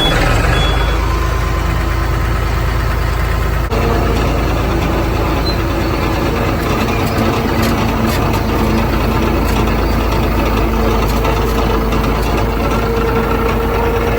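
A heavy engine running steadily at a constant speed. About four seconds in, the sound changes and a steady whine comes in over the engine.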